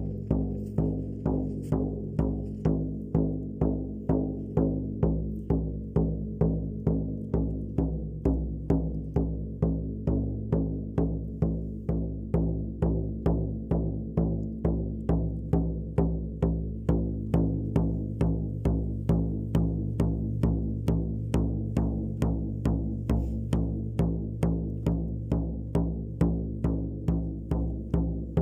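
Shaman's frame drum beaten in a steady, even rhythm, roughly two strokes a second, each stroke leaving a low resonant boom.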